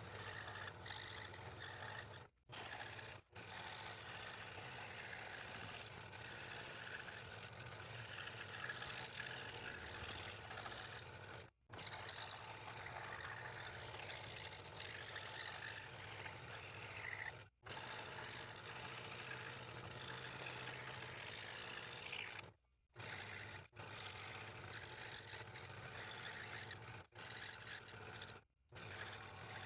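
A woodworking power tool running steadily, a low hum under a scraping, whirring cutting noise, broken several times by sudden cuts to silence.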